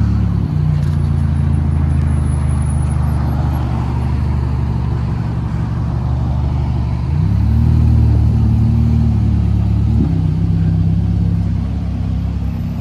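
Ferrari Portofino's twin-turbo V8 running at low revs as the car pulls away. The engine note rises about seven seconds in, then drops suddenly about three seconds later.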